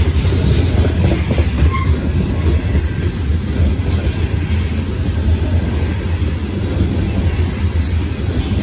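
Loaded coal cars of a freight train rolling past at close range: a steady, heavy rumble of wheels on rail.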